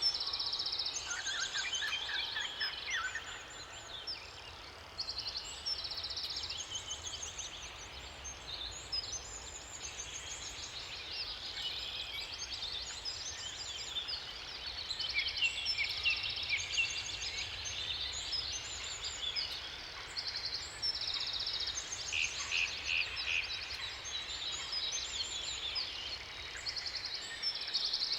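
Several songbirds singing at once, overlapping chirps and fast repeated trills, over a steady rush of water.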